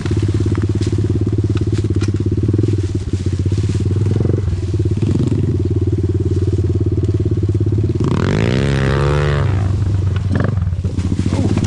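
Small off-road motorcycle engine idling steadily. About eight seconds in, an engine revs up and back down once.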